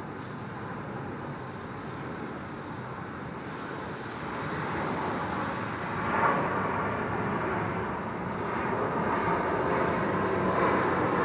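Urban background rumble of passing traffic, heard from an apartment. It swells over the second half as a vehicle goes by.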